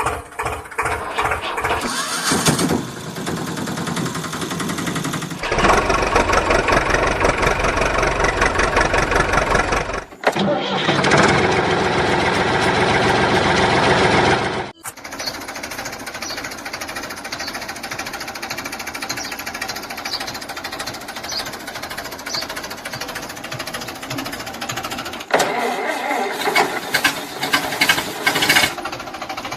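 A small motor running steadily, cut together from several stretches that change abruptly every few seconds.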